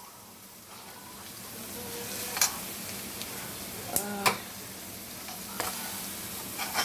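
Onions and garlic sizzling gently in a pan over low heat, with a few sharp clicks of a utensil stirring against the pan.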